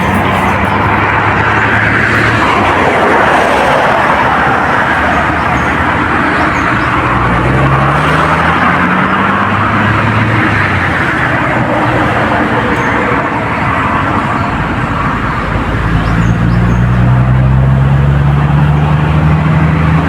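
Road traffic passing close by: vehicle engines running and tyre noise. The engine tone rises about a third of the way in and again near the end.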